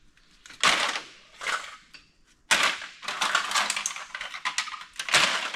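Empty aluminum cans clattering and rattling against each other as they are handled and dumped into bags, in several separate bursts.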